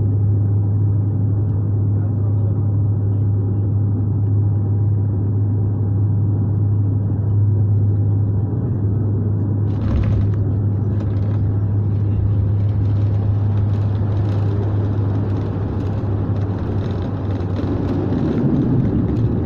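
Airplane landing: a steady low drone of engine and airflow, broken about halfway through by a sudden jolt of noise as the wheels touch down, after which a rougher, hissier rushing noise with rattles continues as it rolls out on the runway.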